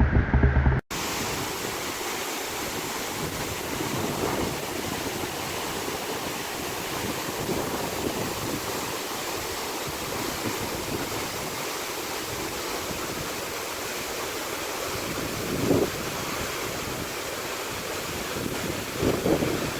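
Steady rush of falling water from a waterfall, with wind buffeting the microphone in two brief gusts late on. A short low rumble at the very start cuts off abruptly about a second in.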